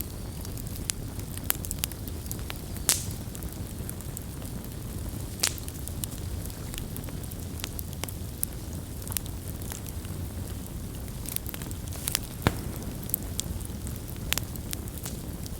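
Campfire burning with a steady low rumble of flames and scattered sharp wood crackles and pops, the loudest about 3, 5.5 and 12.5 seconds in.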